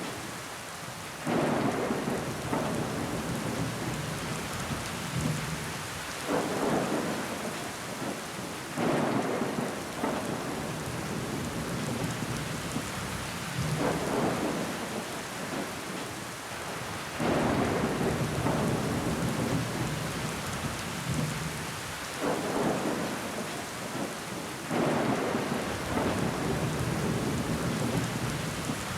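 Steady rain pattering against window glass, with louder swells every few seconds that come on suddenly and die away over a couple of seconds.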